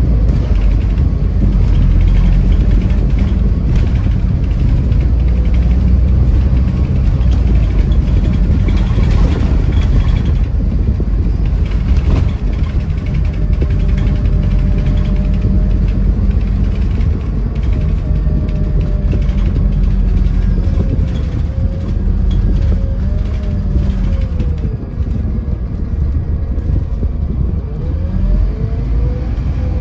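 Scania Irizar i4 coach under way: a steady low engine and road rumble, with a whine that rises and falls in pitch several times in the second half.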